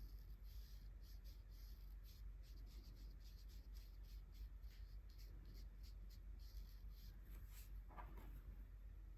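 Faint, irregular strokes of an art tool on paper, several a second, with a couple of sharper scratches near the end.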